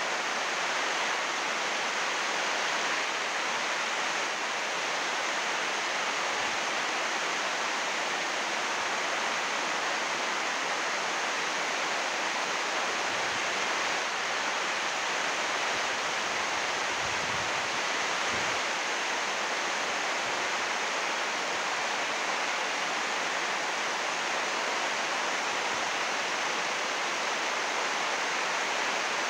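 Heavy rain drumming on greenhouse roof sheeting of 80-micron UV plastic, a steady dense hiss.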